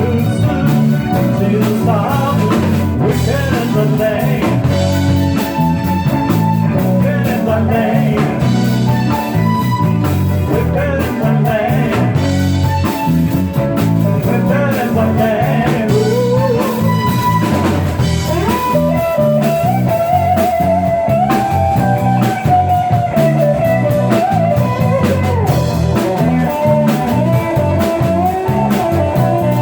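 Band playing a blues song live, with guitar over bass and drum kit.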